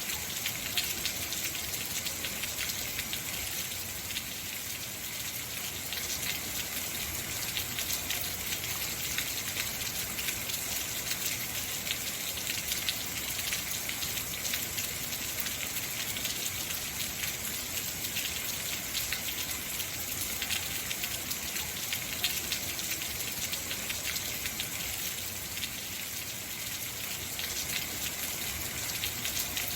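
Heavy rain falling steadily, a dense hiss of drops pattering on hard surfaces with fine crackling spatters throughout.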